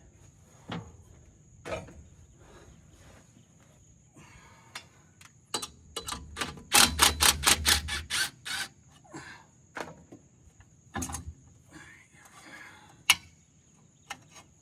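Scattered clicks and knocks of hand tools on metal, with a quick even run of about eight sharp strikes midway. A steady high insect trill, like crickets, runs behind.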